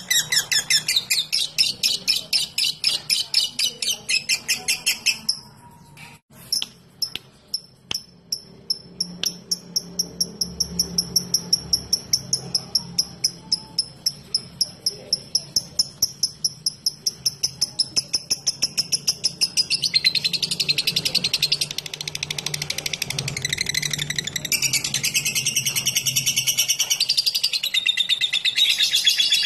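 Lovebird's long chattering trill ('ngekek'): sharp high notes repeated rapidly, about eight a second. It breaks off about five seconds in, starts again after a short pause as a thinner, steady series of high notes, and turns into a denser, harsher chatter for the last ten seconds or so.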